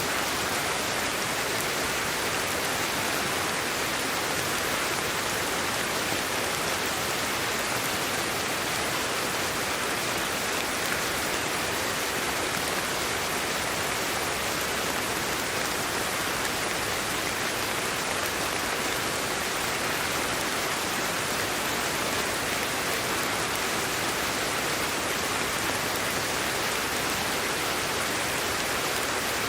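Steady, even hiss of sleep-aid white noise, with little bass and no change in level.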